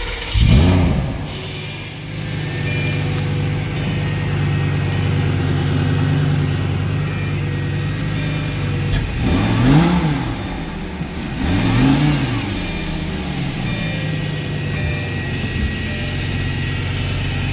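2006 Lamborghini Gallardo's V10 engine starting, flaring up as it catches about half a second in, then idling steadily, with two throttle blips that rise and fall in pitch, around ten and twelve seconds in.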